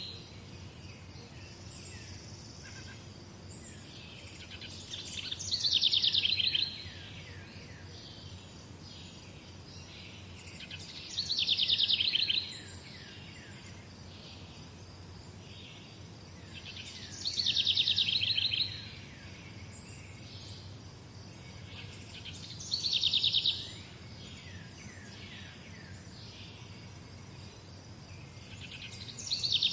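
A songbird singing a short, fast trilled phrase of high notes about every six seconds, five times, with faint chirps from other birds and a steady low background noise between the songs.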